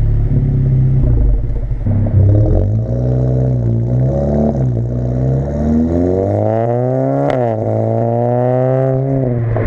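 Audi A4 B9 2.0-litre turbo four-cylinder through an AWE Track Edition exhaust, revving: the pitch rises and dips a few times, climbs to its highest about seven seconds in, then drops away as the revs fall.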